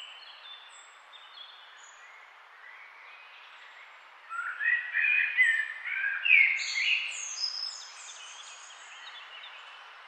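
Birds chirping and singing over a steady background hiss, with a louder burst of quick, overlapping chirps from about four seconds in to about seven and a half seconds.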